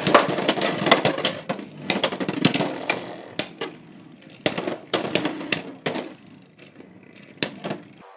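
Two Beyblade X spinning tops clattering and scraping around a plastic stadium, with sharp collision hits every second or so, the rattle fading as they lose spin.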